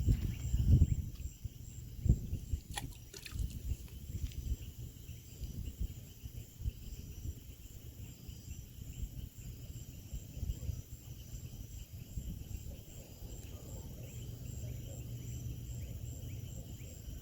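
Steady high-pitched chorus of crickets and other insects, with a few low thumps and rumble in the first couple of seconds.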